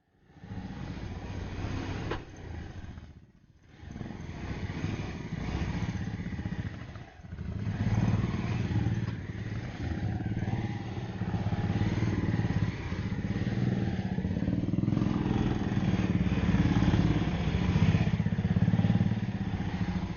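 Motorcycle engine running while riding, its pulsing exhaust note dipping briefly twice and then running louder and steadier from about eight seconds in.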